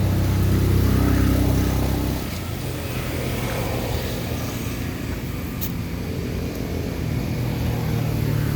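A motor engine running steadily, loudest for the first two seconds, then fading back before building again near the end, with one short sharp click about halfway through.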